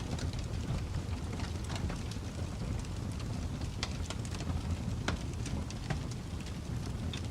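Wood fire burning in a fireplace: a steady low rumble of flames with scattered crackles and pops, a couple of sharper pops near the middle.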